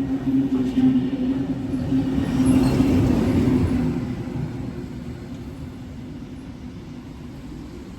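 A train passes through the station with a steady low hum and a rumble. It is loudest about three seconds in, then fades away as the train moves off.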